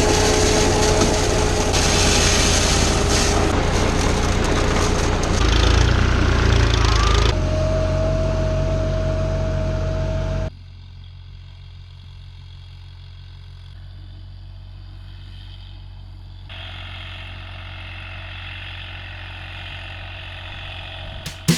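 Tractor engine running with a field implement at work, a steady whine riding over the engine noise. About ten seconds in it cuts abruptly to a quieter, steady engine sound.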